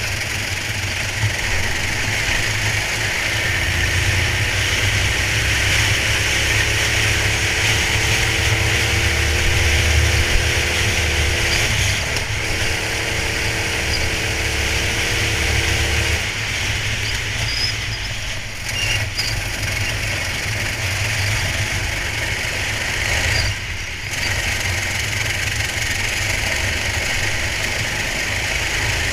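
Racing go-kart engine running continuously under load, heard from a camera mounted on the kart, with a steady hiss over the deep engine rumble. A fainter, higher engine tone comes in a few seconds in and fades out about halfway through.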